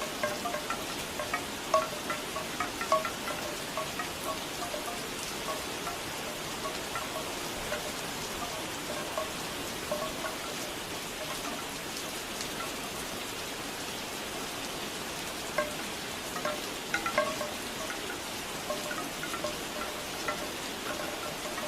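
Steady rain with bamboo wind chimes knocking hollowly in irregular clusters, busiest in the first few seconds and again in the last third, sparse in between.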